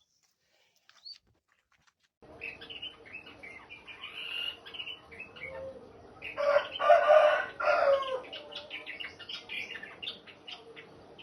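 Songbird singing a rapid, sharp run of high chirps and trills that starts about two seconds in. A louder, lower-pitched burst lasting about a second and a half comes just past the middle.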